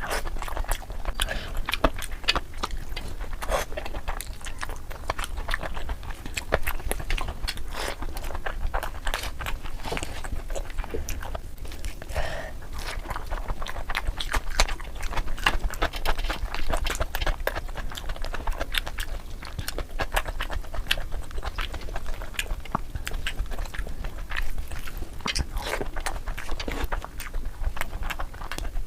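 Close-miked chewing and biting of tandoori chicken, with wet smacking and frequent crunchy clicks, sped up to double speed.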